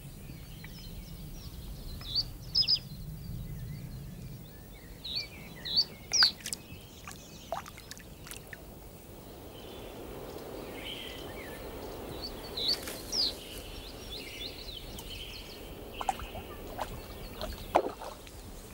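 Small wild birds chirping now and then in short rising calls over a low, steady outdoor background noise. A few sharp clicks stand out, the loudest about six seconds in and near the end.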